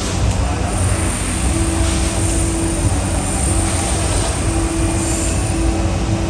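A moving vehicle heard from inside: a steady low rumble with a steady hum above it.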